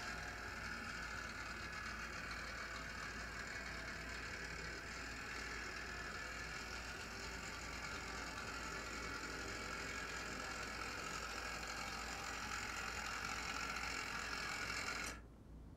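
HO-scale brass SD70M model locomotive running: a steady whir from its electric motor and drive gearing, which cuts off suddenly near the end.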